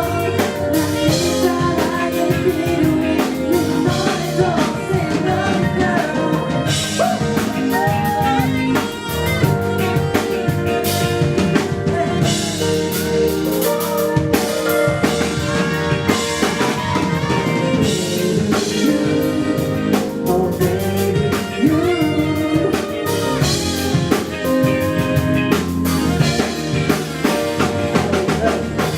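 Live band playing a song with a full drum kit and singing, the music dropping away right at the end.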